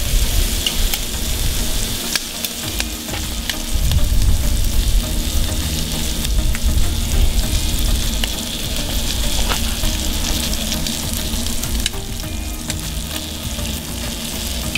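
Shrimp frying in oil in a cast-iron skillet and chicken sizzling over direct charcoal heat on a kettle grill: a steady hiss with scattered pops and crackles, over a low rumble.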